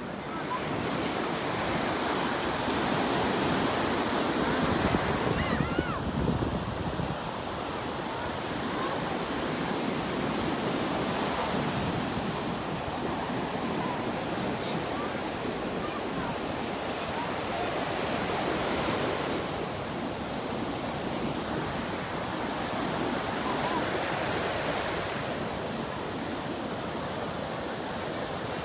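Sea waves breaking and washing onto a beach, the surf swelling every six or seven seconds.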